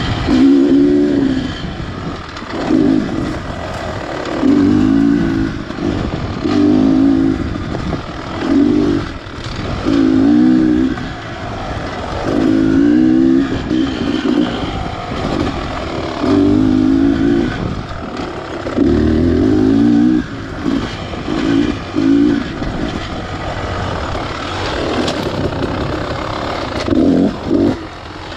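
Beta Xtrainer 300's single-cylinder two-stroke engine revving in repeated short bursts, roughly every one to two seconds, as the throttle is worked on and off through the trail.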